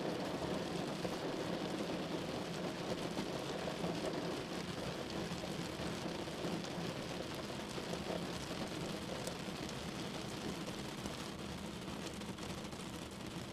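Steady rain falling on a window, an even hiss that eases slightly toward the end.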